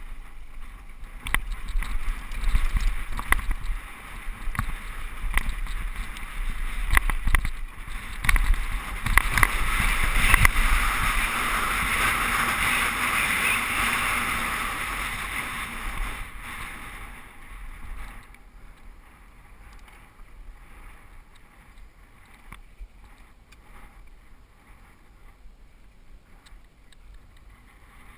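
Mountain bike riding down a rough dirt trail: wind rushing over the camera microphone, with frequent rattles and knocks from the bike over the ground. The wind noise is loudest in the middle and dies down after about 17 seconds.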